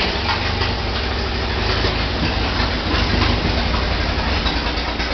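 1929 Ford Model A pickup's four-cylinder Model B engine running steadily at low speed, with a fast, even low pulsing.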